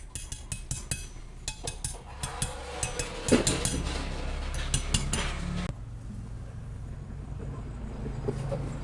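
Metal tools and parts clinking and tapping in quick, irregular strikes for about six seconds, then stopping, over a steady low hum.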